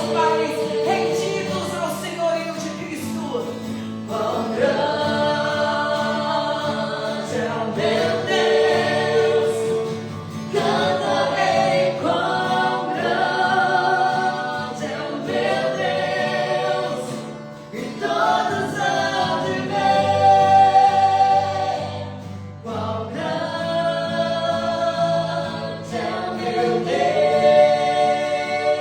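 Christian worship singing: voices sing slow phrases with long held notes over a sustained low accompaniment.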